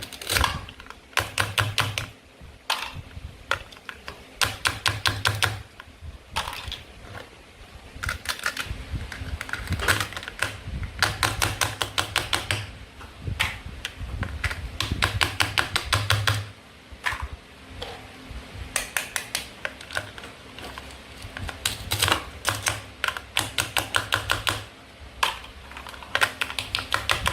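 Toy play food being cut with a toy knife: repeated runs of rapid plastic clicking, each about a second long, with dull knocks underneath.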